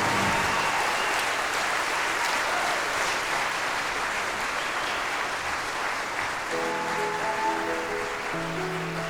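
Audience applauding, slowly dying down. About two-thirds of the way in, the band starts playing the introduction to the next song.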